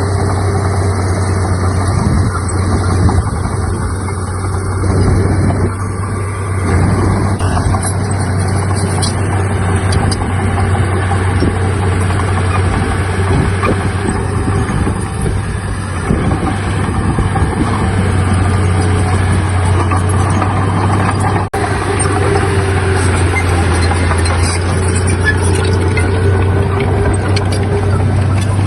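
Heavy diesel engine of earthmoving machinery running steadily: a constant low drone with a fainter, higher steady tone over it.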